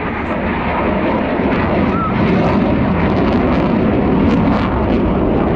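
Airplane flying over, its engine noise loud and steady and swelling a little past the middle, with crowd voices underneath.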